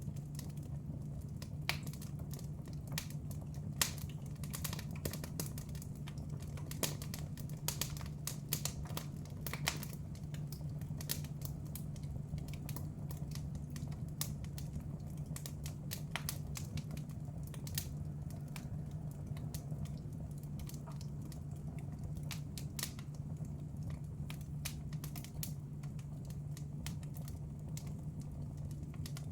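Wood fire in a fireplace crackling, with irregular sharp pops scattered throughout over a steady low hum.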